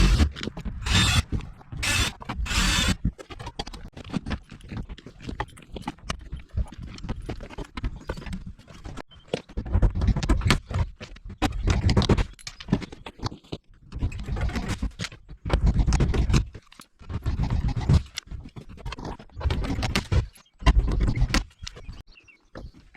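Knocks, bumps and scrapes against the hollow plastic shell of a porta-potty as it is worked on, with a few short hissing bursts in the first seconds and heavy thumps scattered throughout.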